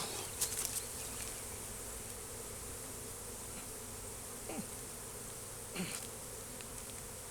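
Honeybees buzzing around an opened hive, a steady drone of many wings. Now and then a single bee passes close, its buzz sweeping down in pitch. The colony is agitated by the inspection. A few light clicks sound in the first second.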